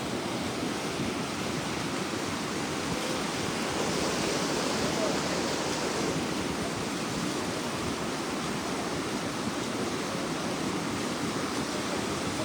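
Floodwater of a river in spate rushing past in a steady, continuous wash of noise, swelling slightly a few seconds in.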